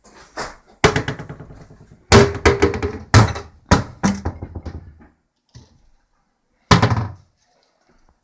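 A series of loud thumps, about seven at uneven intervals, each ringing briefly; the last comes alone after a pause of about two seconds.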